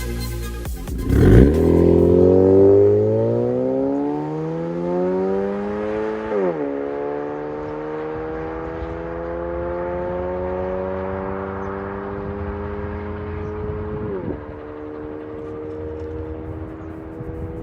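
Honda Civic 1.8's engine through an MS-R valved cat-back exhaust, accelerating: the note climbs steadily, drops sharply at an upshift about six seconds in, climbs again and drops at a second upshift about fourteen seconds in, then holds nearly steady.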